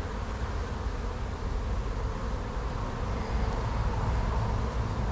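Honey bees buzzing steadily around an opened hive, the colony disturbed by the inspection.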